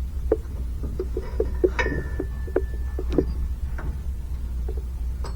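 Irregular light metallic clinks and taps of hand tools on a brake master cylinder as a pin is worked out. One strike about two seconds in rings on briefly with a high metallic tone. A steady low hum runs underneath.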